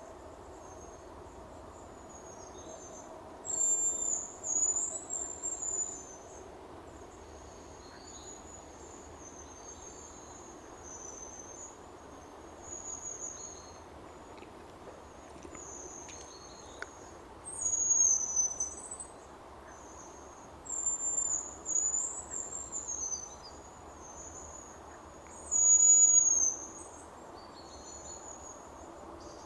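Hazel grouse whistling back and forth in short bouts of thin, very high, wavering whistles, about six bouts with the loudest near the end. These are the contact calls of a hen with her brood, with a cock answering.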